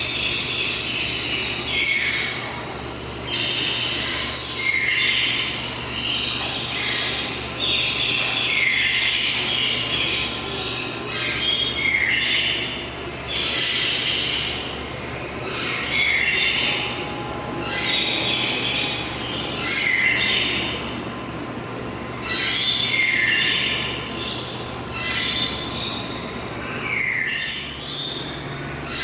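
Birds screeching over and over: harsh, high calls about every one to two seconds, many of them falling in pitch at the end.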